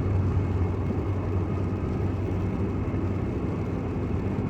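Steady drone of a car driving, heard from inside the cabin: a low engine hum under an even tyre hiss on a rain-wet road.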